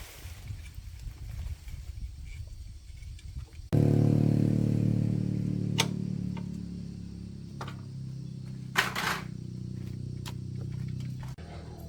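Small motorbike engine running: a low rumble at first, then about four seconds in it catches into a loud steady running note that slowly eases off. A few sharp clicks and one brief burst of noise sound over it.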